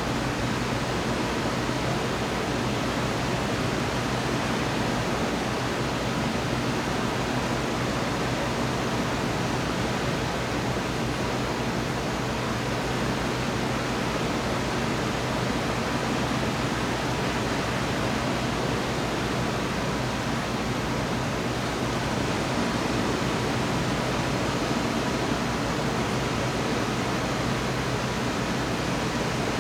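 Steady heavy rain during a thunderstorm, an even rushing noise with no thunderclaps, over a faint low steady hum.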